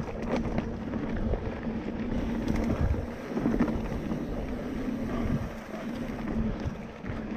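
Mountain bike rolling along a dirt trail: a continuous tyre rumble with a steady hum, scattered clicks and rattles from the bike, and wind buffeting the microphone.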